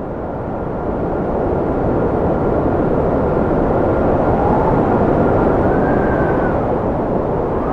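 Strong cold wind blowing steadily, with a faint whistle that rises and falls in pitch a few times over it.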